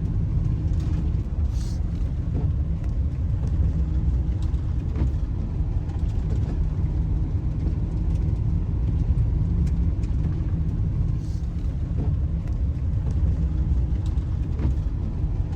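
A van being driven on the road: a steady low rumble of engine and tyres, with a few faint clicks.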